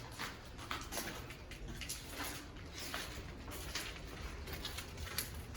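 Irregular footsteps scuffing and crunching on gritty, debris-strewn ground inside an underground concrete bunker, a few steps a second over a low steady rumble.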